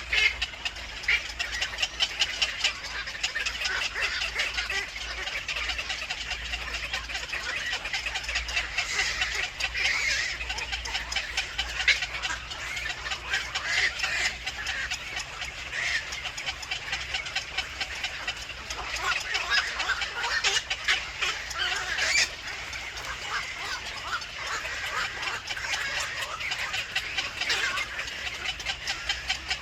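Birds chirping in a dense, rapid stream of short calls that keeps on without a break.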